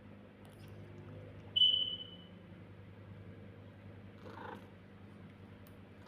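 Domestic cat purring steadily. About a second and a half in, a single sharp high ring fades out over about a second and is the loudest sound.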